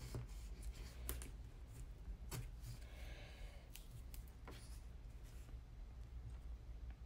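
Double-sided adhesive tape being applied to cardstock by hand: several light clicks and taps, with a short papery rasp about three seconds in.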